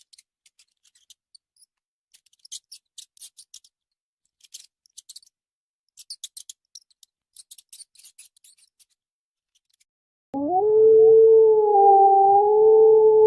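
Faint, scattered high clicks, then about ten seconds in an animal's loud, long howl, held at a steady pitch.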